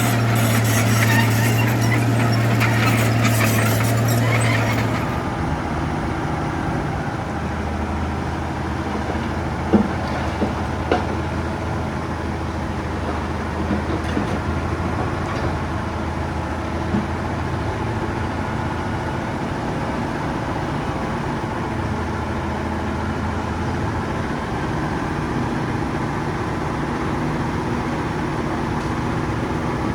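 Heavy diesel earth-moving machinery running steadily. About five seconds in, the engine sound drops to a quieter, lower drone, and a few sharp metallic knocks come through in the middle.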